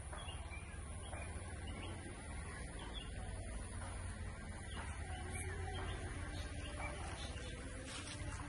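Faint, scattered bird chirps over a steady low rumble on the microphone.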